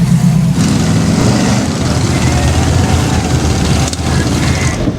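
Truck engine running in slow traffic, low and steady, with a louder rushing noise joining it about half a second in.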